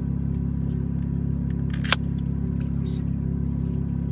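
Steady low drone of an idling truck engine, with a single sharp click about two seconds in.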